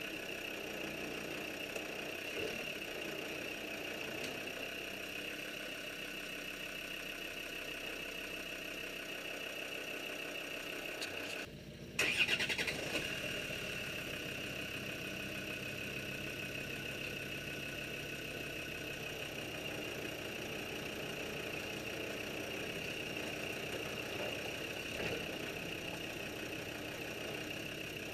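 A Land Rover's engine starts about twelve seconds in, right after a brief cut-out in the sound, and then idles steadily.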